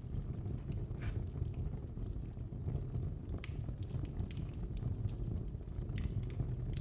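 Wood fire in a fireplace crackling: irregular sharp pops and snaps over a steady low rumble, with a few louder pops about a second in, around the middle and near the end.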